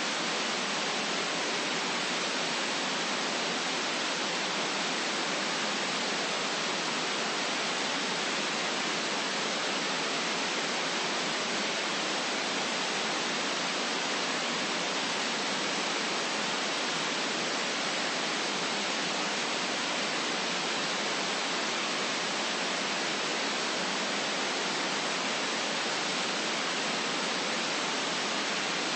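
Synthetic white noise: a steady, even hiss, weighted toward the high end, with no low rumble.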